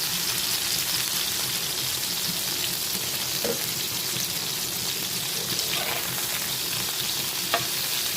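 Food frying in hot oil in a pan: a steady sizzling hiss, with a few light clicks and one sharper click near the end.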